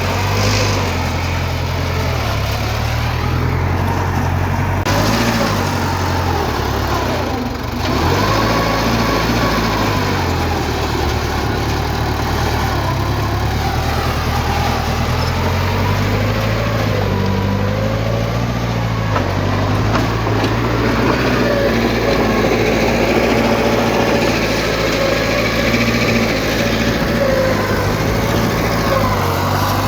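Heavy diesel earthmoving machinery running, its engine note rising and falling with load, with a wavering whine above it.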